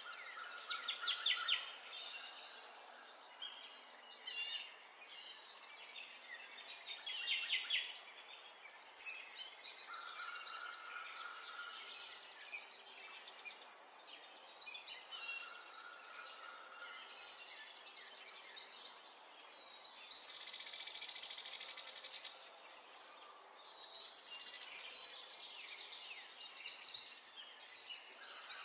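Small birds chirping and trilling in quick, high repeated notes, with a denser buzzy trill about two-thirds of the way through.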